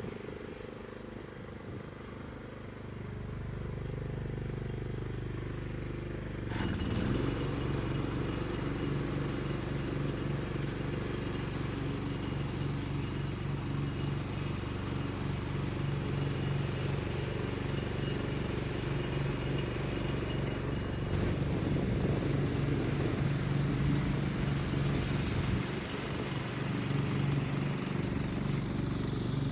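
Husqvarna Rider 13 ride-on lawn mower running with its replacement single engine, a steady engine note that becomes louder and fuller about six and a half seconds in as it is put to work on the lawn after its repair.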